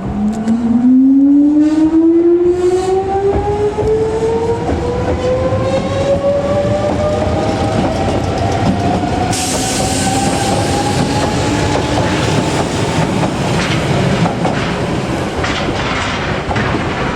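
Electric train pulling away and accelerating: the traction motors give a whine that climbs steadily in pitch for about twelve seconds, over the rumble of wheels on the rails. A brighter hissing rail noise joins about halfway through.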